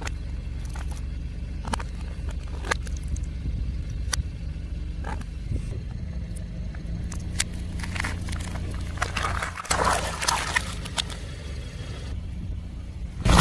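Car engine running low and steady while a tyre slowly rolls over crunchy objects, with single sharp cracks about once a second and a denser run of crackling and crunching from about eight to eleven seconds in.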